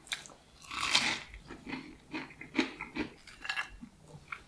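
Close-up chewing of breaded KFC hot wings: the crispy coating crunching in short bursts, about two or three a second, with the loudest crunch about a second in.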